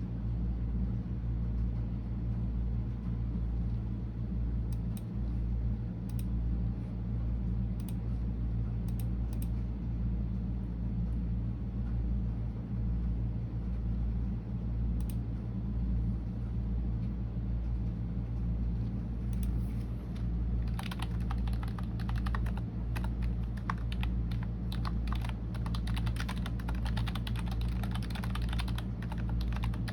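Typing on a computer keyboard: a few scattered keystrokes in the first half, then fast, continuous typing from about two-thirds of the way in. A steady low rumble sits underneath throughout.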